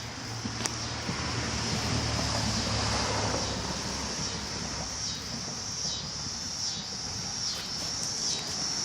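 Steady high-pitched insect chorus, with wind rumbling on the microphone.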